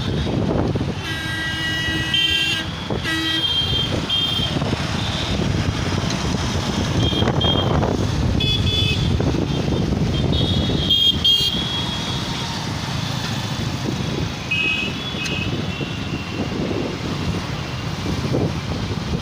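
Busy city road traffic with a steady rumble of engines and road noise, with vehicle horns honking repeatedly: a long honk and several short ones near the start, more around the middle, and another a little after.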